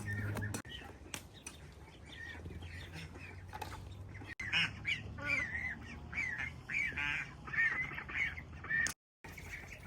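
Ducks quacking in a rapid series of calls, loudest in the second half.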